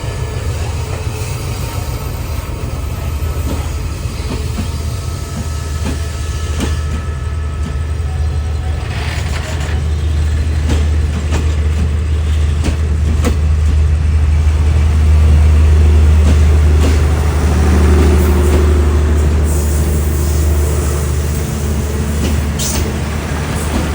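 Diesel-hauled train running, a deep engine rumble that grows louder toward the middle and eases off near the end, with scattered clicks and knocks from the wheels and cars.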